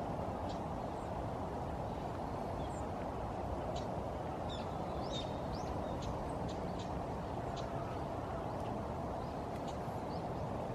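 Short, high bird calls and chirps, scattered and busiest around the middle, over a steady background hum.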